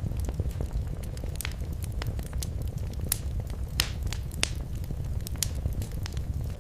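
Wood fire crackling in a fireplace: scattered sharp pops and snaps over a steady low rumble of the flames, with a few louder pops in the middle.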